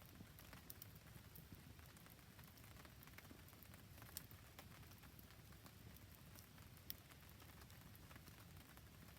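Faint rain falling steadily alongside a wood campfire, a low even rush with scattered sharp ticks and crackles, a couple of them louder about four and seven seconds in.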